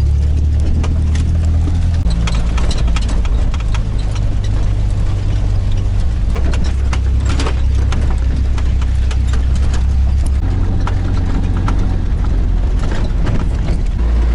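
Car engine running steadily, heard from inside the cabin while driving a rough, potholed road, with frequent irregular knocks and rattles from the body and suspension over the bumps.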